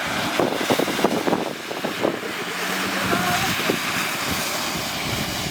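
Wind buffeting the microphone: a steady rushing noise with frequent crackles and bumps.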